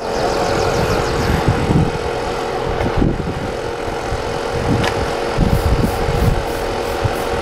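A vehicle engine idling steadily, a constant hum with low rumbling underneath.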